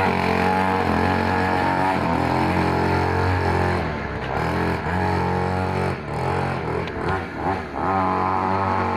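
Mini trail bike's small engine running at a steady speed. It dips and wavers for a couple of seconds about two-thirds of the way through, then settles back.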